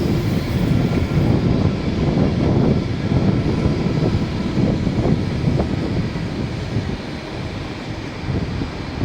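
A train running past, a steady loud low-pitched noise with faint rattles that eases slightly near the end.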